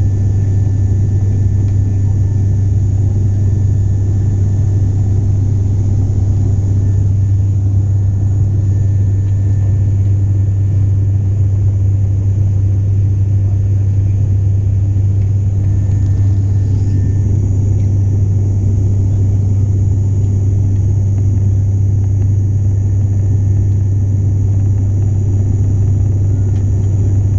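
Steady drone of an airliner's engines heard inside the passenger cabin in flight: a constant low hum over a dull rumble, unchanging throughout.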